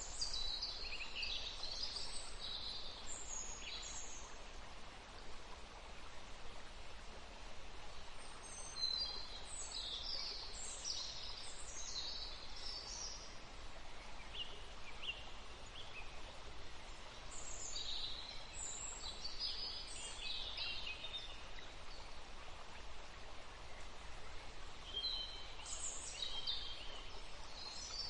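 Songbirds singing in a forest, in bursts of quick high chirps and short song phrases every few seconds, over a steady background hiss of outdoor ambience.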